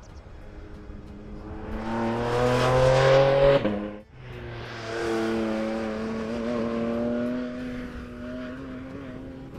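Porsche 718 Cayman GT4 RS's 4.0-litre flat-six under hard acceleration, its note climbing in pitch and growing loud until it breaks off sharply about four seconds in. A second stretch of the engine follows, pitch rising slowly, then fading near the end.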